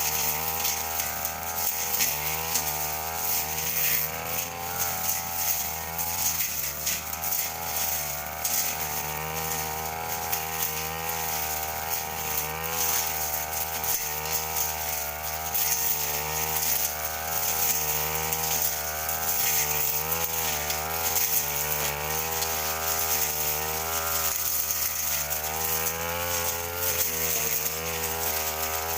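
Brush cutter engine running at high speed while cutting grass, its pitch wavering up and down continuously, with a steady high hiss over it.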